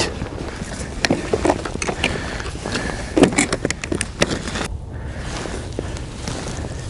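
Footsteps crunching in snow, irregular steps that stop about four and a half seconds in, leaving a steady low hiss.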